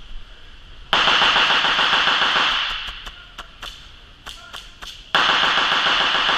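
Airsoft gun firing on full auto in two long bursts, the first about a second in and the second near the end, each a fast rattle of shots that tails off; faint clicks of shots between them.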